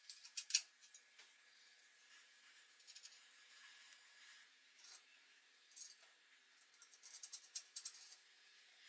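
Faint, scattered small clicks and light scrapes, the sharpest about half a second in, with a quick run of clicks near the end.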